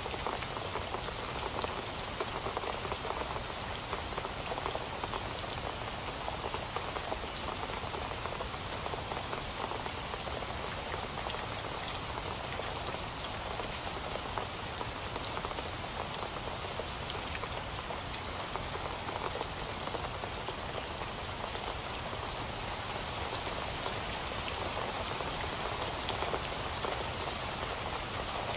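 Steady rain falling, a continuous hiss with the patter of individual drops landing on a surface.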